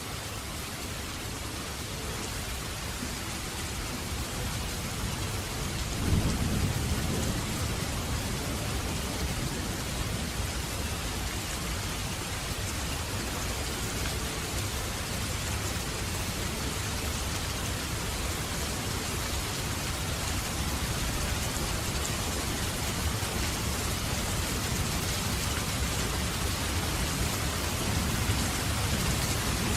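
Steady rain falling, with thunder: a sudden low crack about six seconds in that rolls on as a rumble, and more rumbling building near the end.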